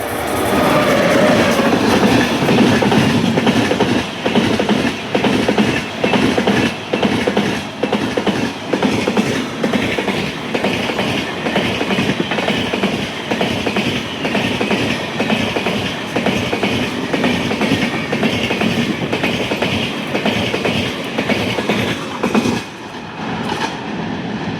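Train passing close by at speed: a loud, steady rumble of the wagons with rhythmic wheel clatter over the rail joints, dropping off near the end.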